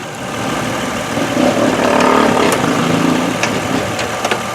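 2003 Lexus ES300's 3.0-litre V6 running after its ignition coils were replaced, getting louder about a second in and easing back a little near the end.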